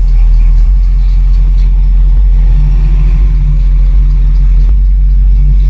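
Heavy, steady low bass from a car's subwoofer sound system played at full volume, loud enough to overload the microphone.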